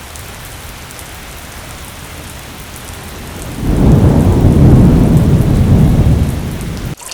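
Steady rain falling, with a long, loud, low rumble of thunder rising about halfway through and fading, then the sound cuts off abruptly near the end.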